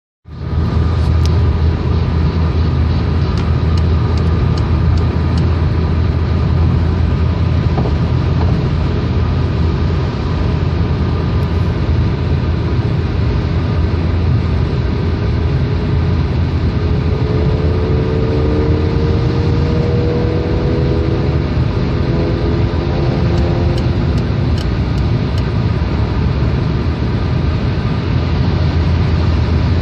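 Peugeot 308 driving along with steady engine and road rumble. A faint tone rises slowly in the middle.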